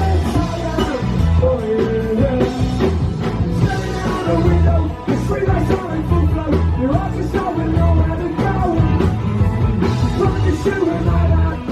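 Live rock band playing loudly, drums and amplified instruments with a singer's voice.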